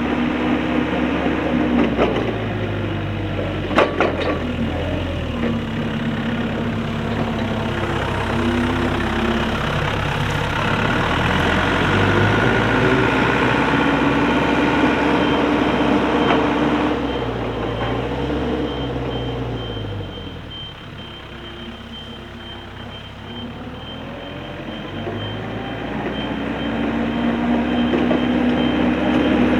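Perkins diesel engine of a 1998 Linde H45D forklift running, its pitch rising and falling as it is worked, and quieter for a few seconds about two-thirds through. A couple of sharp knocks sound a few seconds in, and a high-pitched beeping joins about halfway.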